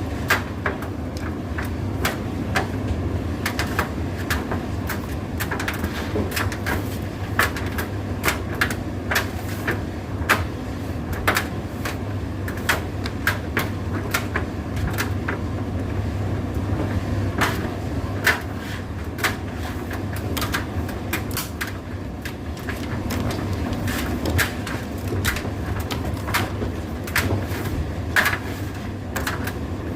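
Indesit IDC8T3 condenser tumble dryer running: a steady low hum from the motor and turning drum, with frequent irregular clicks and knocks.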